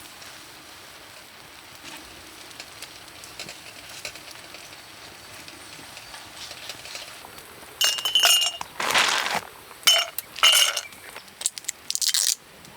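Monjayaki sizzling quietly on a hot iron plate, then in the last four seconds a run of loud metallic scrapes and clinks of a metal spatula working the batter on the plate.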